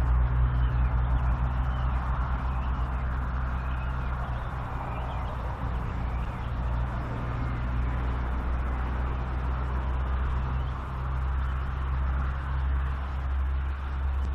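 Outdoor evening ambience: a steady low rumble under a haze of noise, with a few faint, short high calls from animals in the reeds.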